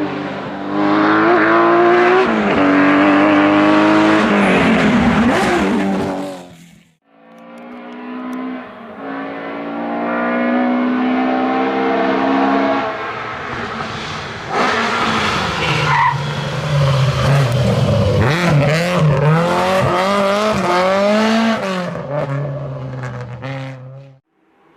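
Historic rally cars driven hard on a special stage: engines revving up through the gears, with the pitch climbing and dropping at each shift and lift-off. The sound breaks off sharply about seven seconds in, and another car comes through on full throttle.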